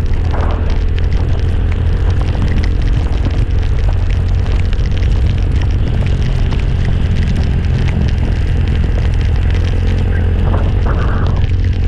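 Motorcycle on the move, its engine running at a steady speed under heavy wind rumble on the microphone, with small ticks of road and wind noise throughout.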